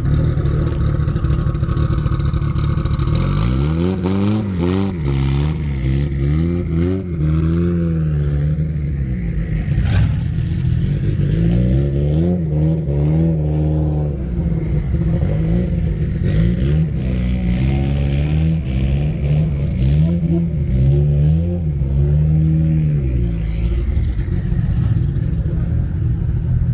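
A car engine idling, then revved up and down over and over, its pitch climbing and falling again every second or two for most of the stretch before settling back to a steady idle near the end.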